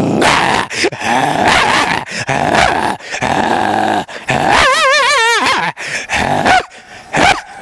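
A man imitating an angry dog with his voice: a run of short, rough growls and barks, with a wavering whine about halfway through.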